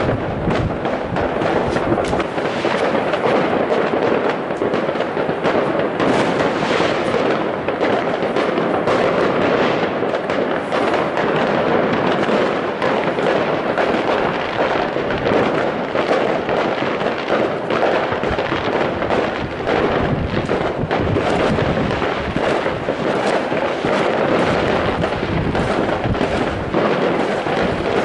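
Fireworks going off in a dense, unbroken barrage of many overlapping bangs.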